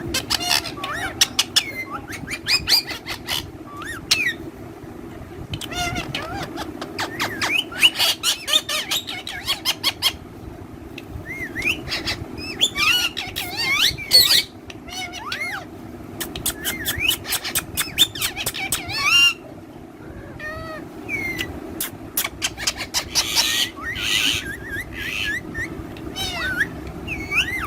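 Pet parrots calling: short chirps and squawks with quick rising and falling whistled glides, mixed with many rapid sharp clicks, over a steady low hum.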